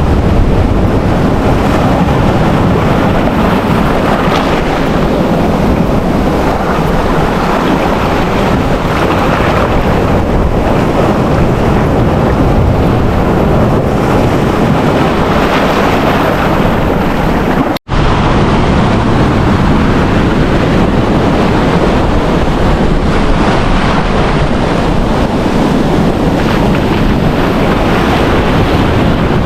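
Wind buffeting the microphone over the surf of ocean waves on a beach, a loud steady rush that breaks off for an instant partway through.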